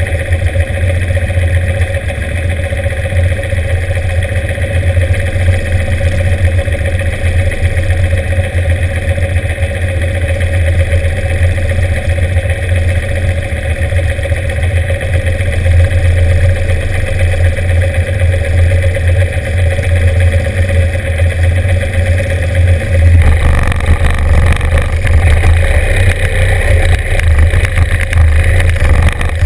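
Norton 750 Commando's parallel-twin engine idling steadily close by. About three-quarters of the way through the sound grows louder and fuller as engines are opened up at the start line.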